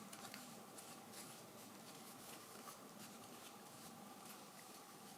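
Near silence: room tone with a few faint, small clicks.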